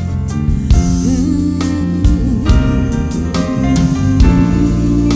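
Live band playing a slow soul ballad between the lead vocal lines: held chords over regular drum kit hits, with brief wordless singing.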